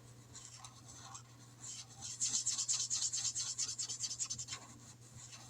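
A marker colouring in a space on a paper chart, scratching in rapid back-and-forth strokes. It is faint at first and grows louder and quicker from about two seconds in.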